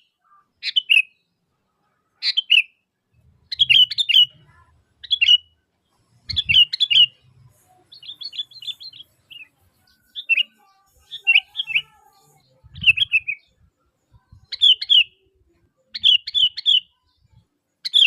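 Sooty-headed bulbul (kutilang) calling: short, bubbly chirping phrases repeated about once a second, with brief pauses between them.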